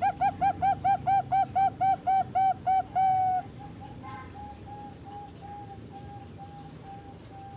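Young Bangkok zebra dove (perkutut) cooing: a fast run of short, even notes, about five a second, ending in one longer held note a little over three seconds in. Fainter, slower coos at the same pitch follow.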